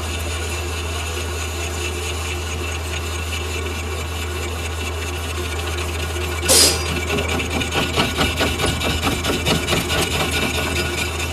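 Lathe running with a steady motor hum while metal scrapes against the turning work of a silage machine roller. A sharp, loud scrape comes about six and a half seconds in, followed by a pulsing, rhythmic scraping.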